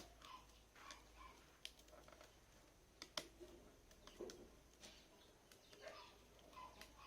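Near silence: faint scattered clicks and taps, with faint short bird calls, over a low background hum.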